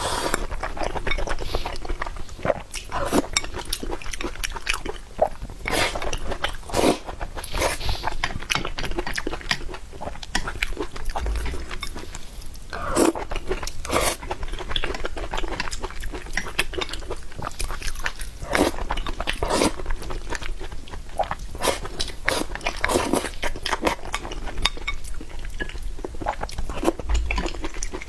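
A person chewing and biting through a meal of noodles and fried tendon, with irregular crunches and wet mouth clicks that come in quick, uneven succession.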